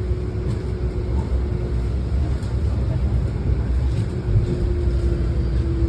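Baltimore Light Rail tram running between stations, heard from inside the car: a continuous rumble with a steady hum that fades out about two seconds in and comes back near the end.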